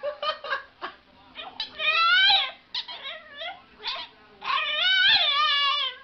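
French bulldog puppy howling in two long, wavering cries, with short yips and whimpers before and between them.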